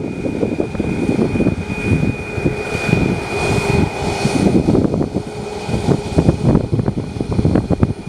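Airliner engines running, with a steady high whine throughout and a lower hum joining in the middle, over an uneven low rumble.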